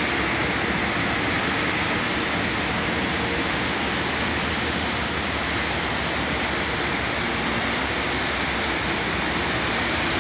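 Steady, even rumble and hiss of an idling Amtrak diesel locomotive and its passenger train.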